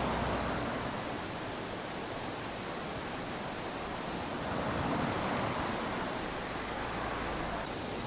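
Small waves washing onto a sandy beach: a steady hiss of surf that ebbs after the start and swells again as a wave comes in about five seconds in.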